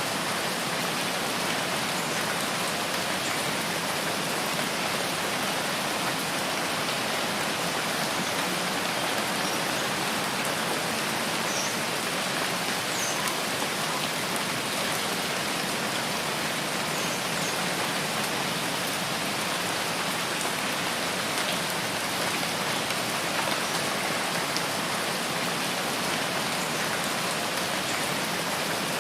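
Steady rain falling in a rain forest, an even hiss of many drops with no change in strength.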